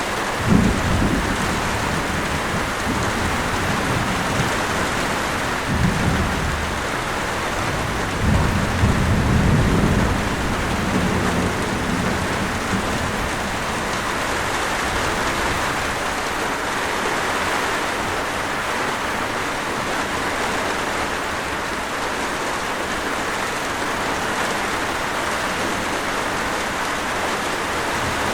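Steady heavy rain hissing, with low rumbles of thunder about half a second in, around six seconds, and again from about eight to ten seconds.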